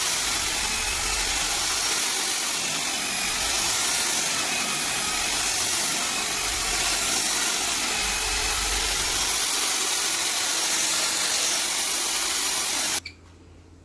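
Steady, loud rushing hiss of a machine or power tool, with a thin high whine wavering above it; it cuts off suddenly near the end.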